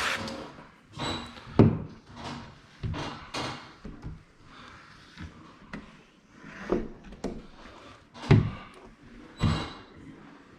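Squeegee passes over window film on glass: a series of short, irregular rubbing strokes and knocks. The loudest come about a second and a half in and again near eight seconds.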